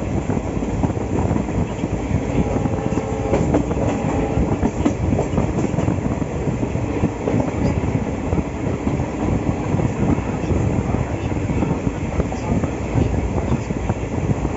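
Indian Railways passenger coach running at speed, a steady rumble with the wheels clattering over the rails, heard from inside the coach.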